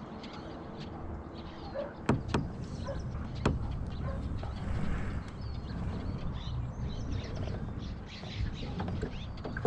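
Small birds chirping, with two sharp knocks about two and three and a half seconds in.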